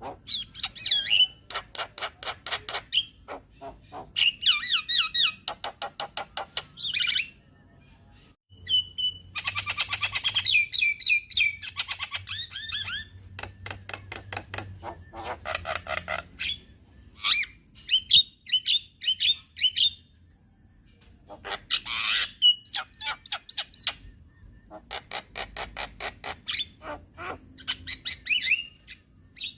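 Javan myna (jalak kebo) singing in fast runs of harsh chattering and whistled notes, phrase after phrase, with brief pauses between the runs.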